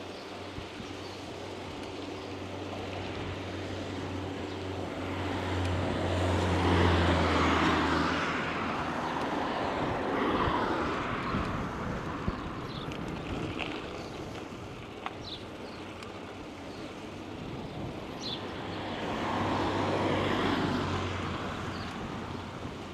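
Motor vehicles passing: an engine hum with tyre noise swells to its loudest about seven seconds in and fades, then a second vehicle swells and fades near the end.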